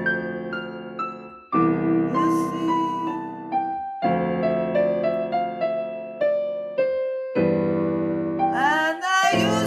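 Electric piano or keyboard music: a slow melody of single held notes stepping downward over sustained chords. A voice comes in near the end.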